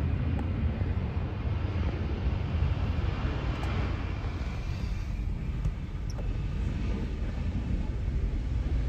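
Jet aircraft engine noise: a steady low rumble with a hiss that swells about three seconds in and then eases.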